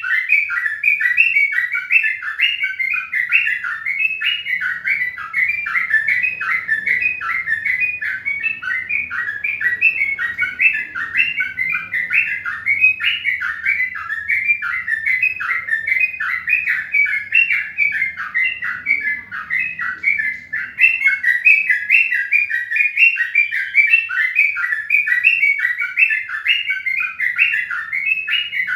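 Birds chirping: a rapid, unbroken run of short chirps, several a second, that keeps on without a pause.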